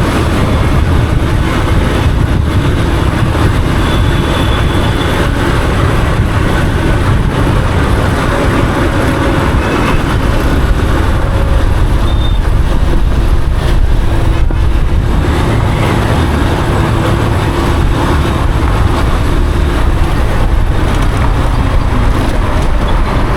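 Yamaha FZ motorcycle being ridden through traffic: steady wind rush on the microphone, heaviest in the low end, over engine and road noise.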